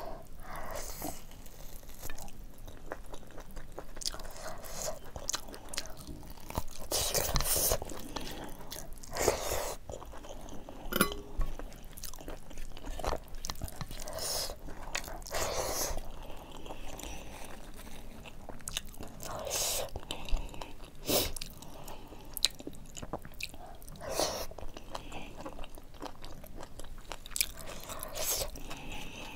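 Close-miked eating sounds: a person chewing and smacking through mouthfuls of rice and buffalo meat curry eaten by hand, with irregular wet clicks. Fingers mix rice on a steel plate between bites.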